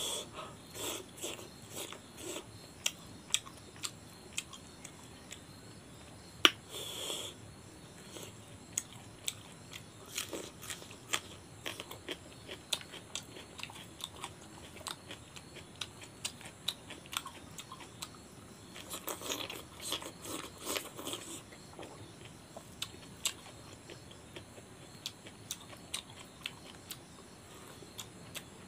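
Close-miked chewing and biting of a mouthful of rice and chicken curry eaten by hand, with wet mouth sounds and many short sharp clicks and crunches, the loudest a single sharp click about six seconds in.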